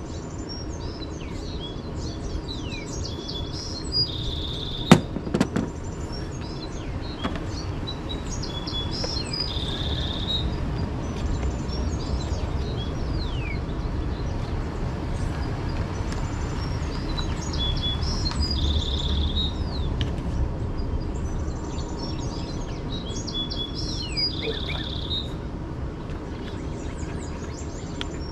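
Songbirds chirping, one returning to the same short song phrase every several seconds, over a low steady rumble. A single sharp click about five seconds in.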